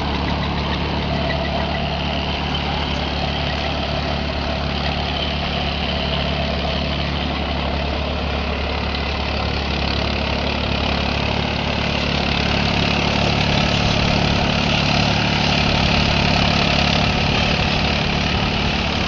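Tractor engine running steadily at an even, low speed, growing a little louder for a few seconds past the middle.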